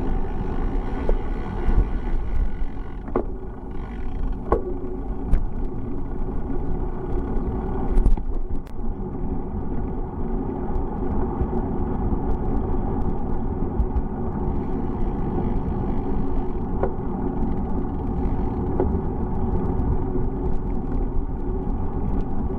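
Steady rumble of a bicycle ride on the road, with a few sharp clicks and rattles along the way.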